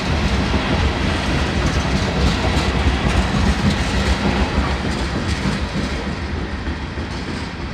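Cars of an RJ Corman sand train rolling past on the rails: a steady rumble of steel wheels with clacks over the rail joints, growing quieter near the end.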